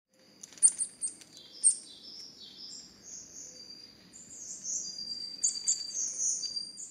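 Birds chirping and singing: a few sharp high chirps in the first two seconds, then a busier run of high warbling phrases.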